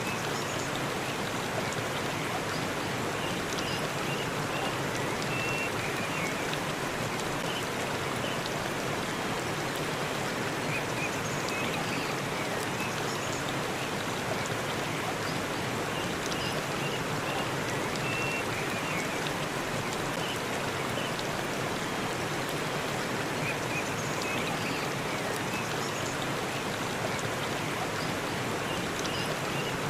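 Forest waterfall rushing in a steady, unbroken wash of falling water.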